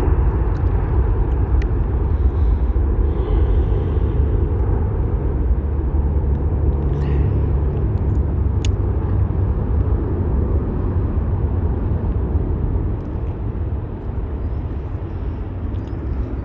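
Jet airliner taking off, a steady loud low roar that drops off a little about thirteen seconds in as it climbs away.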